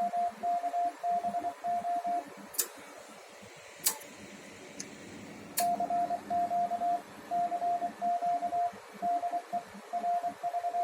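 Transceiver CW sidetone: a single steady beep keyed in Morse dots and dashes as CW is sent through the linear amplifier into the dummy load. The keying stops for about three seconds in the middle, where three sharp clicks sound, then resumes.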